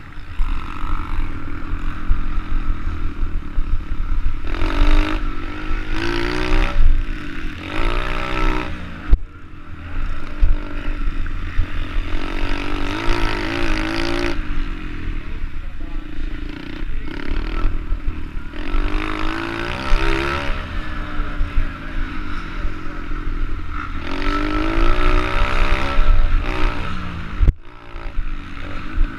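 SSR110 pit bike's single-cylinder four-stroke engine revving up and down over and over under throttle, with heavy wind rumble on the microphone.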